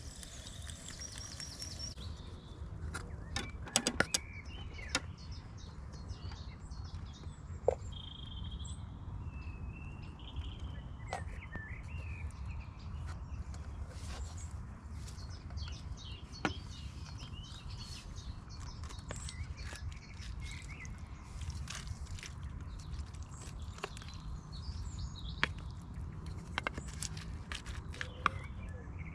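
Outdoor ambience: a few birds chirping, clearest about eight to twelve seconds in, over a steady low rumble, with scattered light clicks and taps throughout.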